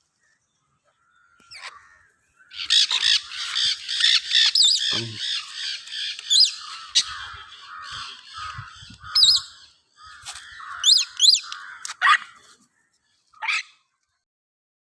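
Parrots calling: a long stretch of rapid, harsh screeching from about two seconds in until about ten seconds, then a few short sharp calls and whistled glides in pitch.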